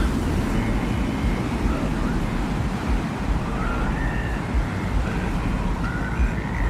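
Designed desert-wind ambience: a steady, low wind with small gusts. Faint, short high whistling tones come and go above it.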